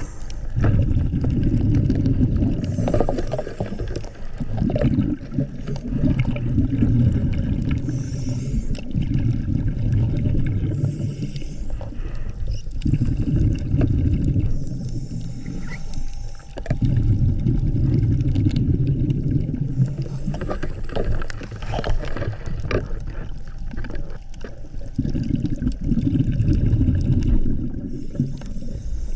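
Scuba diver breathing through a regulator underwater: bursts of exhaled bubbles rumble and gurgle for a few seconds at a time, every four to six seconds, with a fainter hiss of inhaling between them.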